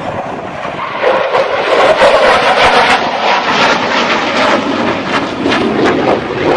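Aircraft flying past, its engine noise swelling about a second in and staying loud.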